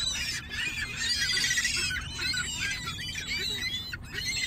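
A flock of gulls calling over one another, many short squeaky calls overlapping.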